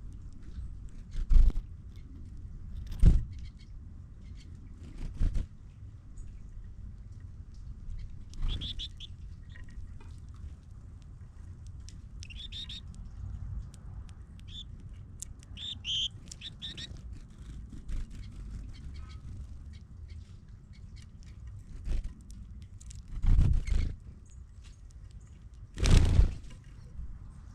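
Small birds chirping in short, scattered calls over a low steady rumble, broken by several loud, brief dull thumps.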